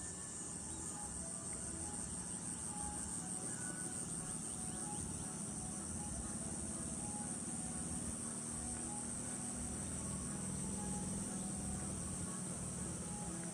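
Steady high-pitched insect chorus, an even shrill drone without breaks.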